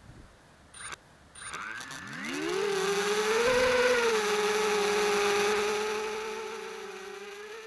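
Small quadcopter's Cobra 2400kv brushless motors spinning up with a rising whine, then holding a steady hum with a slight waver in pitch that slowly gets quieter toward the end. Two short high beeps come about a second in, before the spin-up.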